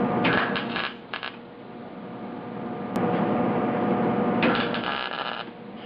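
Arc welder laying short tack welds on thin door sheet metal: two crackling bursts about a second long, one near the start and one near the end, with a sharp click between them.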